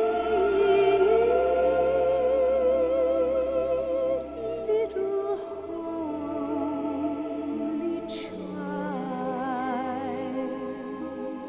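Slow orchestral music with long held notes that waver in vibrato, growing quieter about halfway through.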